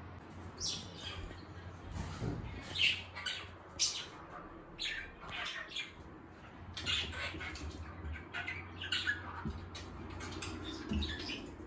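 A pet bird squawking and chirping in a run of short, sharp calls, several a second in bursts, with brief pauses between.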